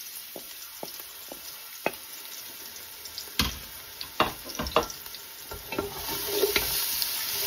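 Ginger-garlic paste and whole spices sizzling in hot oil in a metal pot. From about three seconds in, a wooden spoon knocks and scrapes against the pot as it stirs, and the sizzle grows louder near the end.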